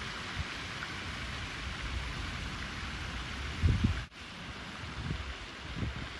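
Outdoor ambience: a steady rushing hiss with wind buffeting the microphone in low gusts, the strongest a little before the middle. The sound cuts out for an instant about four seconds in.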